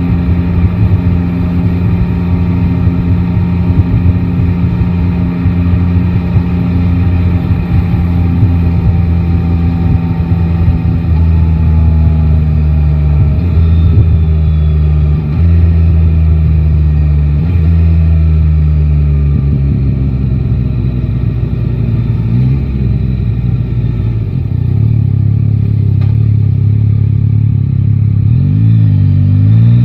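Yamaha Tracer 9 GT's inline-three engine under way in city riding: it runs steadily, its pitch falls gradually through the middle as the bike slows, and it rises sharply near the end as the bike accelerates again.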